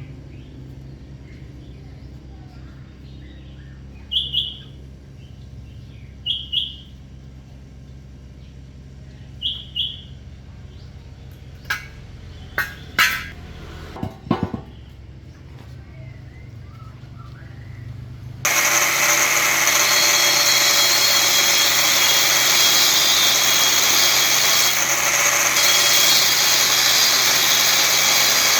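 A low steady hum with a few short paired chirps and some sharp clicks. About two-thirds of the way through, a loud, steady machine noise starts suddenly and runs on.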